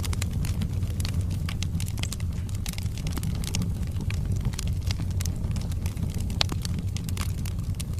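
Wood fire burning in a fireplace: a steady low rumble of the flames with many small crackles and pops from the burning logs, one sharper crack about six seconds in.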